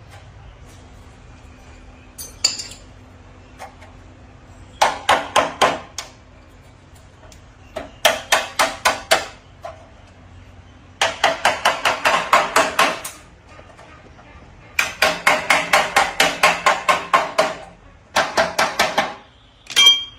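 Hammer tapping metal in quick runs of strikes, about five a second, five runs separated by short pauses; the struck metal part rings with steady tones under the blows.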